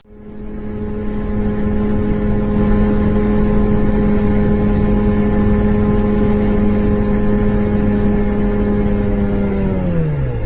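An engine running at a steady pitch, with its pitch dropping sharply near the end as it winds down.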